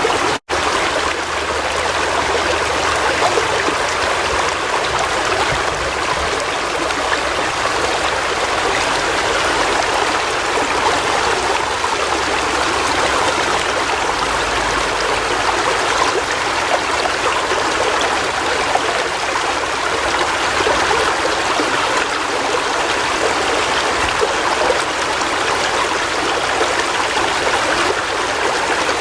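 River water flowing steadily, an even, unbroken rush of moving water, with a split-second dropout about half a second in.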